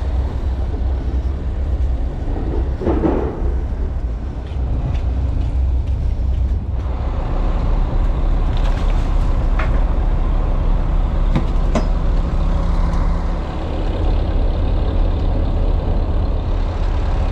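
Fishing trawler's diesel engine running with a steady low rumble. A few sharp knocks come through about ten and twelve seconds in.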